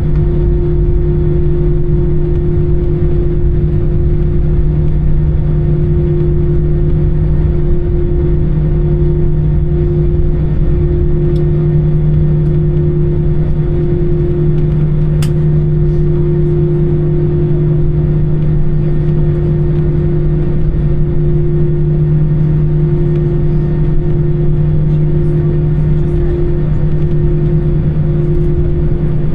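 Steady engine drone and rushing air inside the cabin of an Airbus A320, with two constant low hums over a deep rumble. A single sharp click sounds about halfway through.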